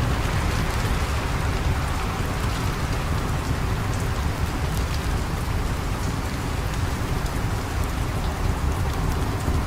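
Steady rain, a constant even hiss over a low rumble, with faint scattered ticks throughout.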